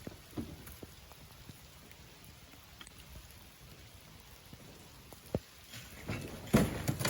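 Sand and grit being shovelled and tipped, heard as a patter of scattered light knocks, with a sharp knock and then a louder burst of pouring and scraping near the end.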